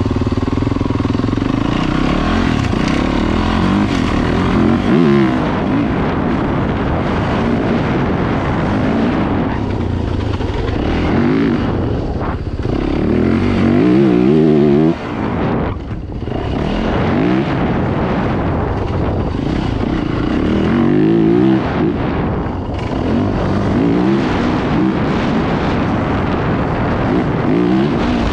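Dirt bike engine running hard, its pitch rising and falling over and over as the rider works the throttle and shifts, with a short dip in level about halfway through.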